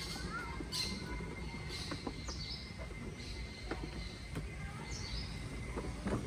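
Birds calling: short, high chirps that slide down in pitch, several over a few seconds, above a steady low rumble.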